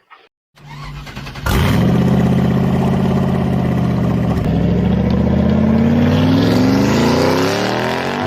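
A motor vehicle engine running steadily, then revving up with its pitch climbing over the last few seconds before it cuts off abruptly.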